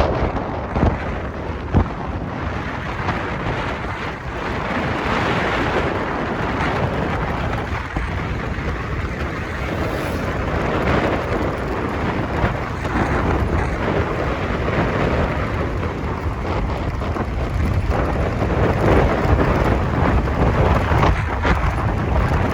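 Steady rumbling wind noise on the microphone, with no clear engine tone.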